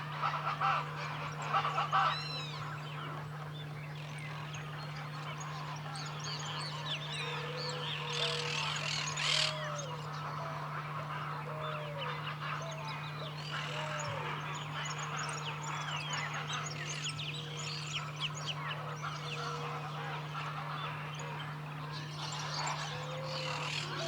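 A chorus of several wild birds calling at once: many high, arching chirps and whistles, with a low curved call repeated every second or two, over a steady low hum.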